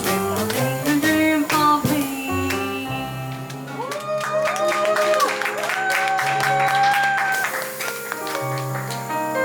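Live jazz band of piano, double bass and drums playing an instrumental passage, with a walking bass line under piano chords and light drum and cymbal strokes.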